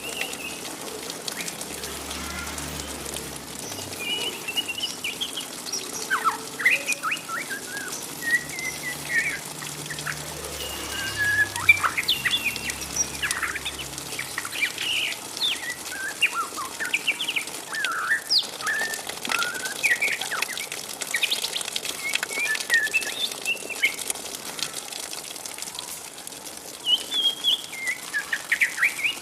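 Juvenile white-rumped shama twittering: a loose run of short chirps and quick rising and falling notes, the 'ngriwik' chatter of a young bird not yet in full song.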